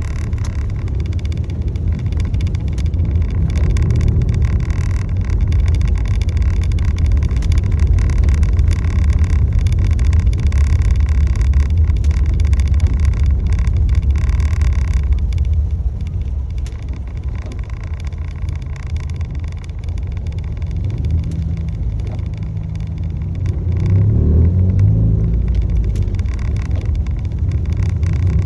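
A motor vehicle driving, with a steady heavy low rumble of engine and road noise. A short rising engine note comes near the end.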